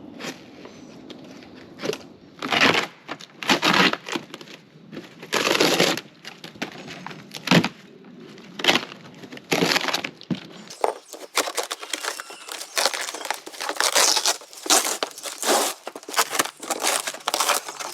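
Styrofoam roof insulation being pried and scraped off a panel with a flat scraper. It crunches and tears in irregular bursts, and the scraping grows denser and more continuous about two-thirds of the way in. The foam is waterlogged from a roof leak.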